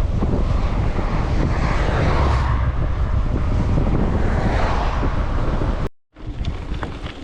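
Heavy wind buffeting on the microphone of a camera carried on a moving mountain bike, a loud low rumble mixed with trail noise. It cuts off abruptly about six seconds in, followed by a quieter stretch with small clicks and rattles.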